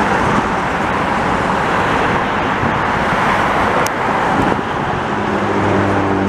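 Loud, steady rushing vehicle noise, with a low droning hum joining about five seconds in.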